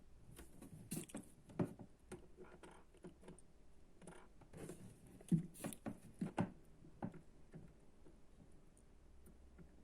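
Irregular light clicks, taps and rustles of small objects being handled, stopping about seven seconds in.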